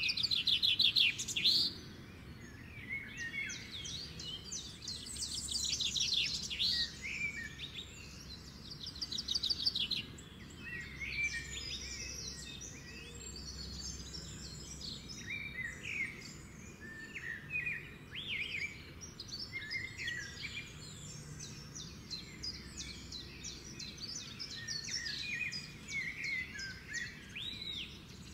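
Several birds singing and calling at once: fast trills and short chirps overlapping throughout, over a steady low background rumble.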